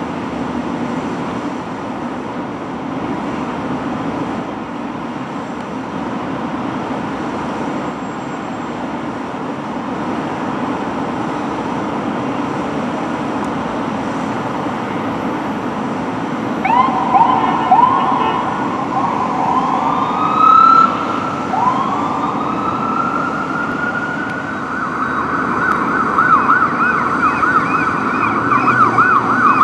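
Steady street traffic noise, then about halfway through a responding emergency vehicle's siren starts: a few short rising chirps, a long rising wail, then a fast yelp that grows a little louder toward the end.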